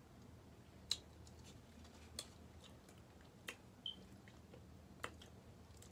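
Faint eating sounds: about five soft, separate mouth clicks and smacks from chewing fries and pizza, over a quiet room hum.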